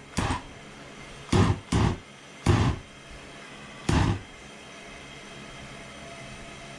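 Five short hissing bursts over a steady low gas hiss as a homemade propane forge burner fails to light with the valve opened only a little; the bursts come in the first four seconds, then only the hiss remains.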